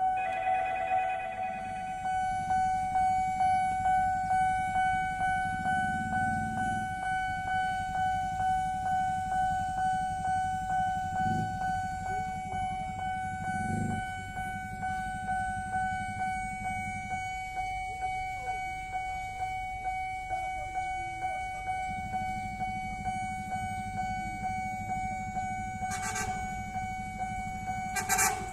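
Electronic level-crossing warning bell ringing a steady high tone that pulses about twice a second, warning of an approaching train, over a low traffic rumble. Two brief sharp noises come near the end.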